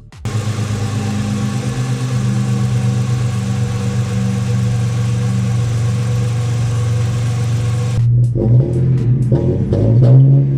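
2002 Ford Mustang's 3.8-litre V6 engine, fitted with homemade spark plug wires, running at a steady speed. From about eight seconds in it is revved up and down repeatedly.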